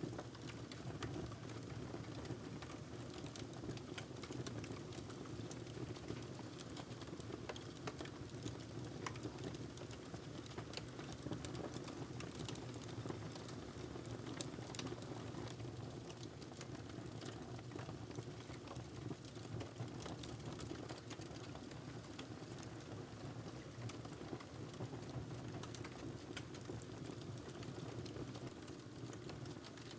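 Fire burning in a fireplace: a steady low rush of flames with frequent small crackles and pops.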